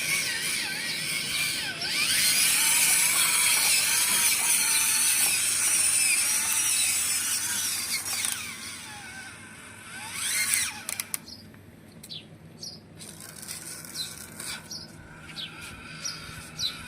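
Small electric gear motors of model tractors whining under load, with gears clicking and ratcheting. About ten seconds in the motor sound drops away, leaving scattered clicks and short squeaks.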